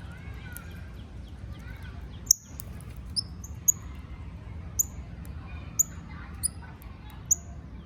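Northern cardinal giving sharp chip calls: about seven short, high, downward-sweeping chips roughly once a second, starting about two seconds in, the first the loudest. Other birds call faintly underneath, over a steady low rumble.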